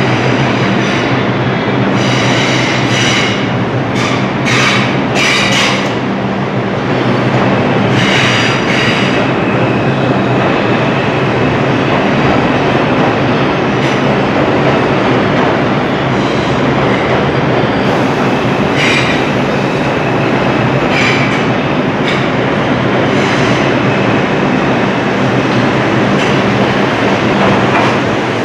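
A train running on the rails: steady loud running noise with a low hum, and sharp clacks of the wheels over rail joints in clusters a couple of seconds in, at about eight seconds, and again past the middle.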